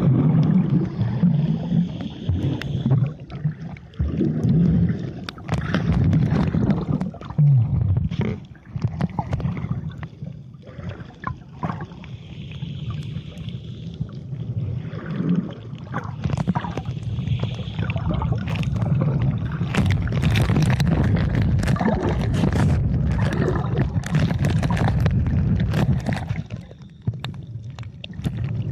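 Water sloshing and gurgling around a camera in or at the sea, with a steady low rumble and scattered clicks and bubbles.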